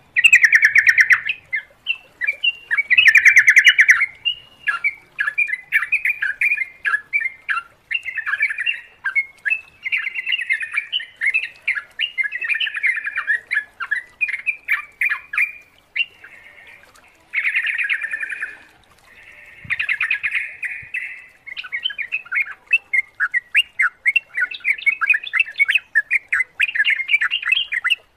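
Yellow-vented bulbuls (trucukan) chattering: a continuous run of quick chirps and short squawky notes, with a few louder, longer bursts along the way.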